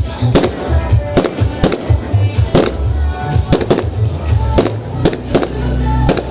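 Fireworks display with sharp bangs going off one after another, about two a second, with music playing underneath.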